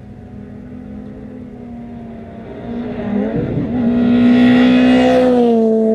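Ford Fiesta rally car's engine at high revs as it approaches on a gravel stage, getting louder. About three seconds in the revs dip briefly, as at a gear change or lift, then pick up. The engine is loudest around four to five seconds in, and its pitch drops near the end as the car passes.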